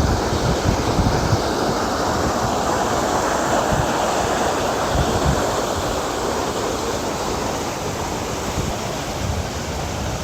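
Steady rush of falling water from a garden waterfall, with wind buffeting the microphone in low gusts.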